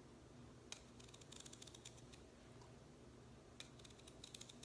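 Faint clicks of a knife slicing a raw potato into thin rounds, coming in short quick runs.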